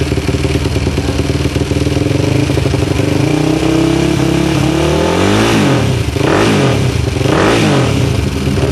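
Single-cylinder Supermono race motorcycle engine running at a fast idle, then revved three times about a second apart, its pitch rising and falling with each blip.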